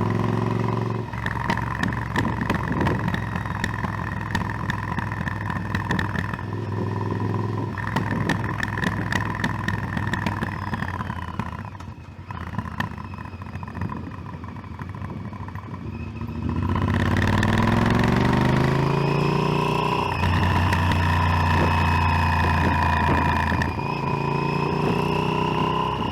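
Motorcycle engine under way, heard on the rider's own microphone. It eases off and quietens about halfway through, then picks up again with pitch rising as it accelerates, twice.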